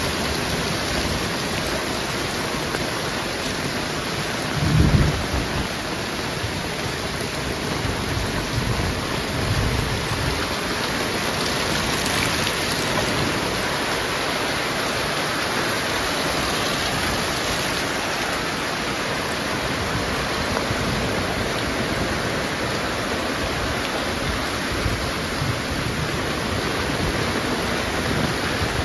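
Heavy rain falling steadily, with a short, loud low rumble about five seconds in and fainter low rumbles a few seconds later.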